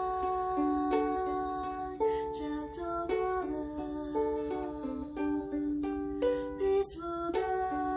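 Ukulele playing an instrumental passage on its own: plucked melody notes ringing over chords, with a few sharp strummed chords.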